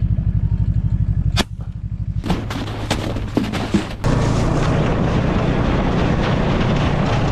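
A single sharp gunshot about a second and a half in, over a steady low throb. A few fainter knocks follow, and a louder steady rushing noise sets in about four seconds in.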